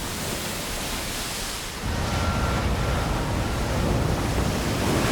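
Ocean surf washing up the shore, a steady rush of waves that grows louder about two seconds in.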